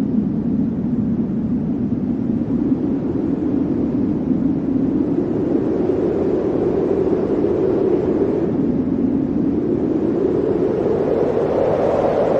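Blizzard wind blowing steadily, its low hollow pitch drifting slowly up and down and rising higher near the end.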